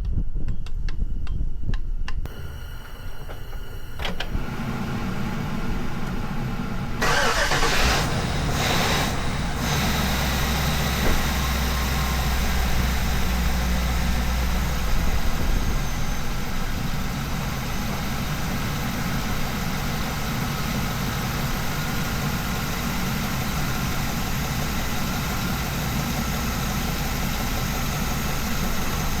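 Ambulance engine starting up for the first time after an oil change with engine flush: it catches about seven seconds in and settles into a steady idle.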